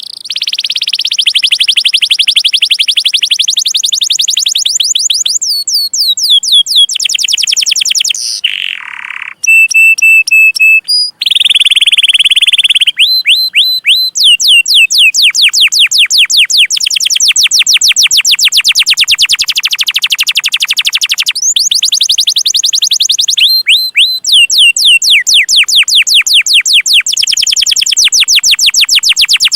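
Domestic canary singing a long song of rapid repeated chirping notes, each a quick high downward-sweeping whistle, many a second. About eight seconds in, a short buzzy note and a few held whistled tones break the runs, and then the fast chirping resumes.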